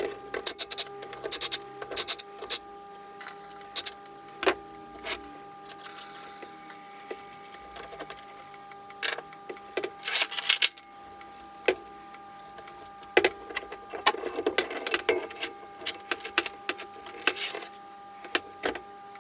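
Small metal engine parts and hand tools clinking, tapping and rattling in irregular bursts as the Honda CB450 engine is taken apart, over a faint steady hum.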